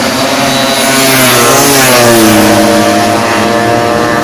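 A tuned two-stroke Vespa scooter engine running at high revs with a shrill exhaust note; the revs drop back in the first half and then hold steady.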